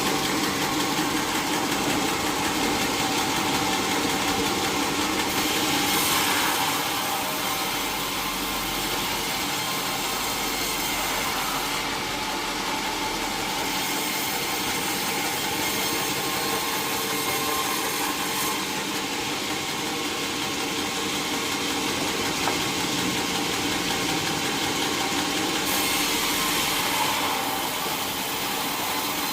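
Sawmill saw running steadily through a teak log over a continuous engine hum. The sound grows brighter and sharper about six seconds in and again near the end.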